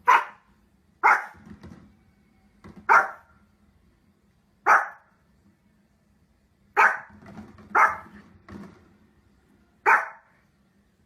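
A dog barking: seven single, sharp barks, spaced irregularly one to two seconds apart.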